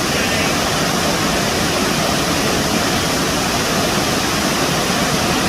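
Gooseberry Falls' water rushing in a steady, loud, unbroken roar.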